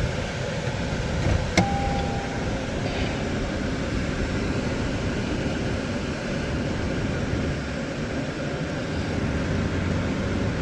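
Steady rushing noise inside a parked Toyota Prius, of the kind made by its climate fan. About a second and a half in there is a sharp click, followed by a short electronic beep.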